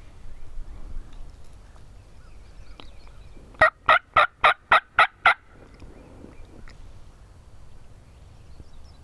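Wild turkey calling: a quick series of seven loud, evenly spaced notes, about four a second.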